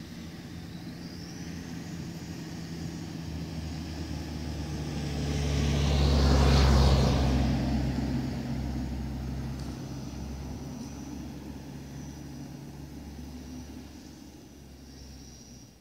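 Dual-motor Kyosho Blizzard RC snow vehicle running, its electric motors whining over the low rumble of the drivetrain, growing louder as it comes close, loudest about seven seconds in, then fading as it moves away.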